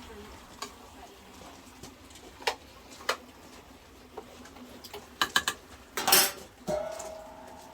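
Pots, dishes and utensils being handled: scattered clinks and knocks, a short clattering burst about six seconds in, then a brief steady tone near the end.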